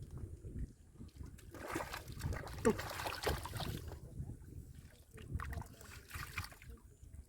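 Shallow muddy water sloshing and splashing as hands dig and grope for fish, with a brief voice sound in the middle.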